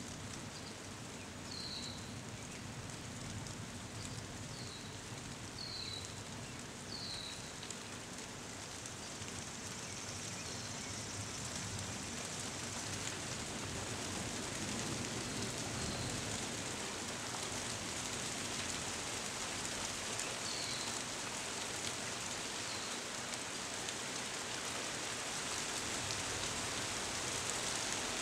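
Steady rain falling, an even hiss that grows louder over the first dozen seconds or so. A few short high chirps sound near the start and again about twenty seconds in.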